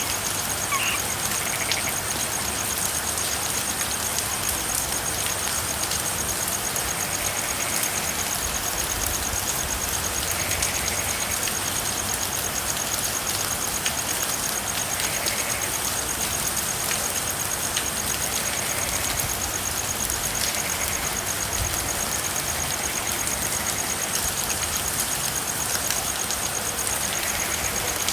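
Steady rain falling with frogs calling: short faint calls recur every few seconds over a continuous high, thin trill.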